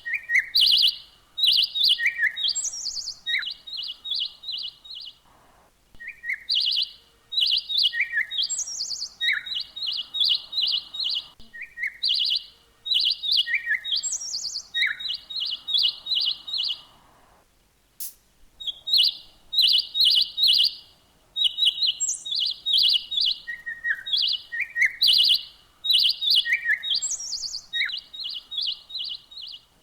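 A songbird singing the same phrase over and over, about every two seconds: a short falling note, a high downward slur, then a quick run of bright repeated notes. A single sharp click comes about eighteen seconds in, just after a short gap.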